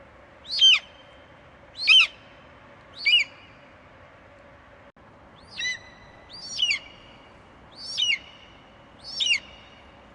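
Eagle screeching: seven short, high calls, each sliding down in pitch, roughly one a second with a short pause midway.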